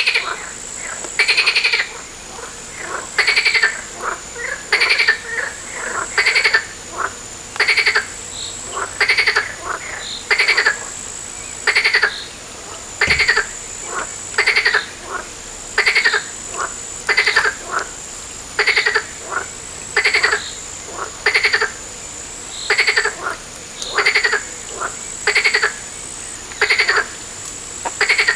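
A frog croaking over and over, about one short call a second, with a faint steady high-pitched whine behind it.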